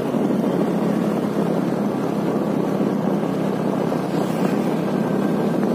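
Two-wheeler engine running at a steady cruising speed while riding, a constant drone, with wind rushing over the microphone.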